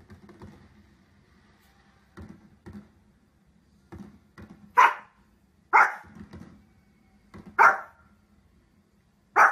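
Small fluffy spitz-type dog barking: four loud, sharp barks about a second or two apart in the second half, after a few fainter short sounds.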